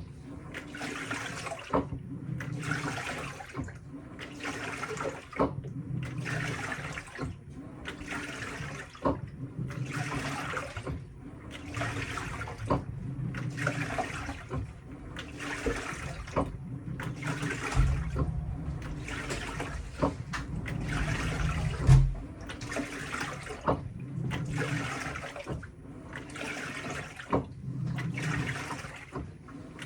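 Panasonic washing machine running its tub-cleaning cycle: water sloshing in even surges about every second and a half as the wash tub churns. A few seconds of low rumble past the middle ends in a thump.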